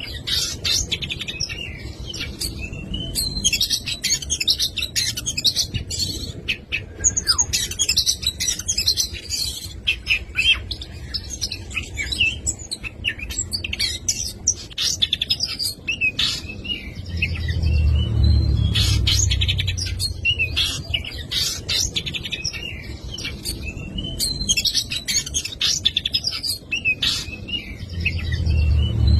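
Oriental magpie-robin (kacer) singing without pause, a fast, varied run of whistles, trills and rapid chattering phrases packed with mimicked calls of other birds (isian). A low rumble swells underneath about two-thirds of the way through and again at the end.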